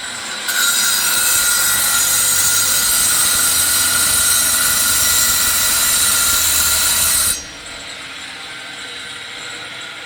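A metalworking tool running in one burst of about seven seconds: a loud, steady hiss that starts about half a second in and cuts off suddenly, leaving a quieter steady workshop noise.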